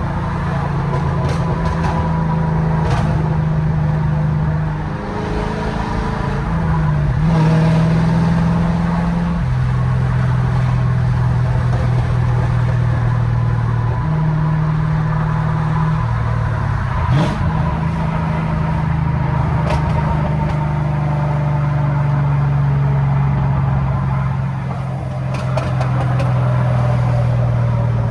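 2011 Camaro SS's 6.2-litre V8 through a straight-piped exhaust (catalytic converters deleted, H-pipe, Borla ATAK mufflers), running steadily while driving, its pitch stepping up and down several times as the revs change.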